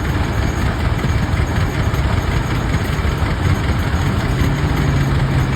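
Rumely OilPull tractors' two-cylinder kerosene engines running steadily with a heavy low pulsing beat while powering a sawmill by belt. A steady low hum joins about four seconds in.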